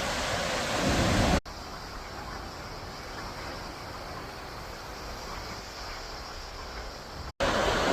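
Wind on the microphone and ocean surf, a steady rushing noise across three spliced shots, the middle one quieter.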